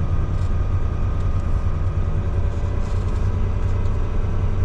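Mack semi-truck's diesel engine running steadily with a low rumble and a faint steady whine above it.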